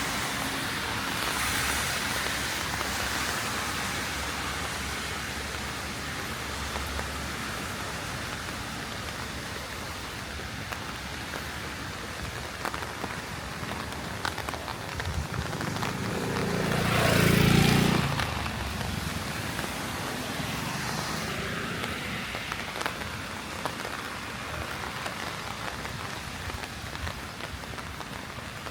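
Heavy rain falling steadily on a street, with a scatter of sharper drop ticks. About two-thirds of the way through, a vehicle passes on the wet road, its hiss swelling and fading over a few seconds.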